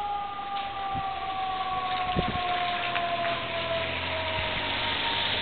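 Distant emergency-vehicle siren: a steady two-note tone that slowly falls in pitch, over a steady hiss.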